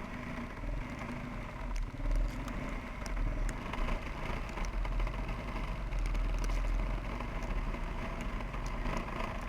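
Suzuki QuadRunner 300 ATV's single-cylinder engine running under load while the quad struggles in deep snow, stuck and unable to get traction even in four-wheel drive. The engine note rises a little about two seconds in, is strongest through the middle, and eases off near the end.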